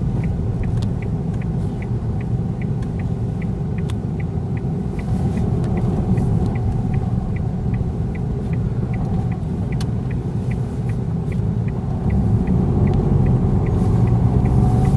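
Car interior road rumble, steady and low. A light, even ticking about twice a second runs through it. The rumble gets a little louder near the end.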